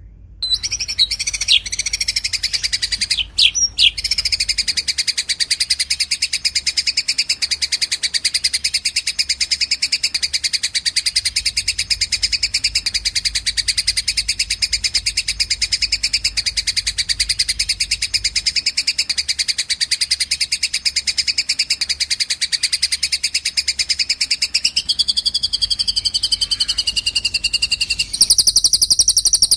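Recorded songbird trill for bird-song training: one long, rapid, unbroken trill with a few sharper notes at the start. About two seconds before the end it switches to a different, higher and buzzier trill.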